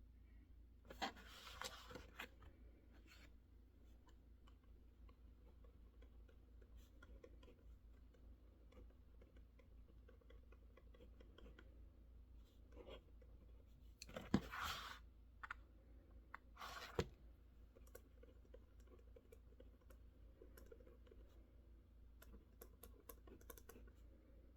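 Quiet desk work on a mechanical keyboard: scattered faint key clicks over a steady low hum. Brief louder scraping or rustling sounds come about a second in and again around fourteen seconds in, and a single sharp click comes near seventeen seconds.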